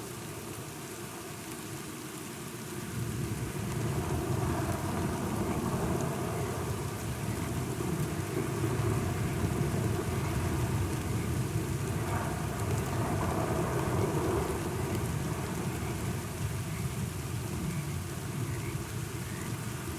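Steady rain falling, with a low rumble of thunder that swells a few seconds in and eases off toward the end.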